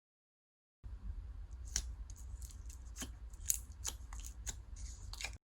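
Slime being squeezed and poked by hand, giving crisp clicks, pops and fine crackling, with half a dozen sharper pops among them. A faint low hum runs beneath.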